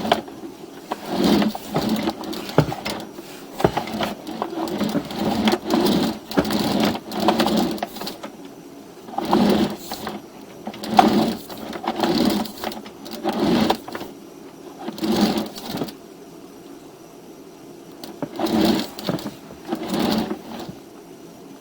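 Sewer inspection camera's push cable being worked by hand through its reel: a mechanical rattling in repeated strokes about a second apart, with a short pause about two-thirds of the way through.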